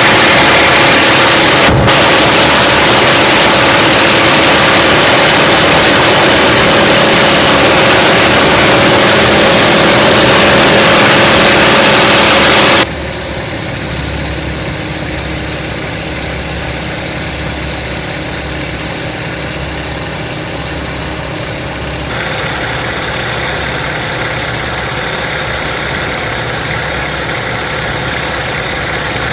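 Nanchang CJ-6's nine-cylinder radial engine running steadily. The sound is very loud and rushing for about the first half, with a brief break about two seconds in. It then drops abruptly to a quieter, steady engine note that grows brighter again about two-thirds of the way through.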